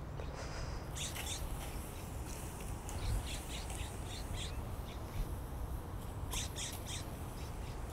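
Faint outdoor background hiss with a few short, high-pitched bird squawks: one about a second in, a few around three seconds, and a quick cluster of three or four near the six-and-a-half-second mark.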